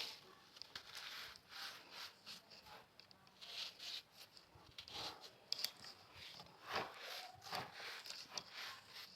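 Compacted salt crumbles being crushed, giving irregular dry crunches and crackles, with a few sharper crunches in the second half.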